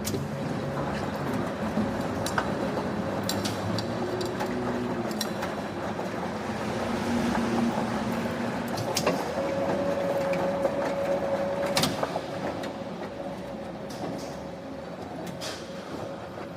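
Factory machinery running with a steady hum and a couple of held tones, broken by scattered sharp metallic knocks, loudest about two seconds in and near nine and twelve seconds.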